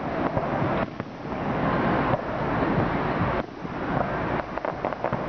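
Fireworks display: aerial shells bursting in a dense run of bangs and crackles over a continuous rumble.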